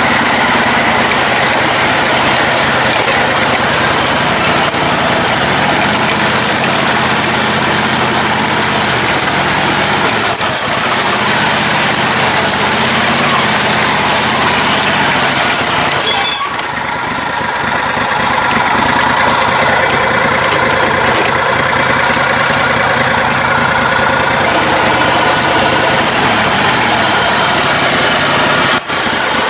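Engine of a lifted riding lawn mower running steadily while driving over rough trail, with a brief drop in level a little past halfway and a sharp click near the end.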